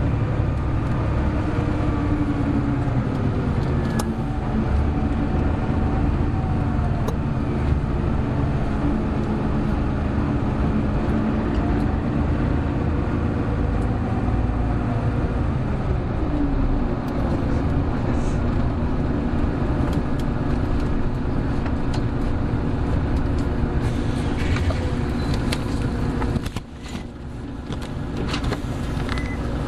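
Hino Blue Ribbon City Hybrid bus engine and drivetrain running while the bus is driven, heard from on board. The engine note steps down in pitch about three seconds and sixteen seconds in. Near the end the sound drops away briefly, then builds again, with light rattles in the cabin.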